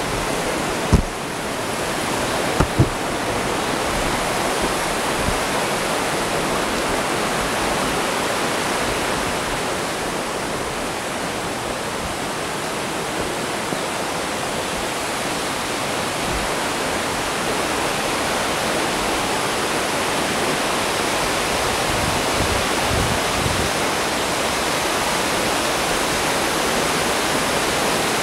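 Steady rush of water tumbling down a rocky mountain river, with a couple of sharp knocks about a second in and again near three seconds.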